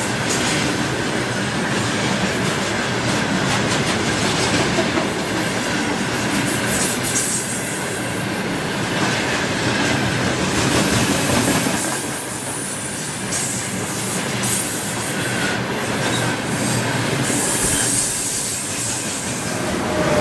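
Freight train wagons rolling past, wheels clattering over the rails in a steady rumble, with a faint high wheel squeal at times.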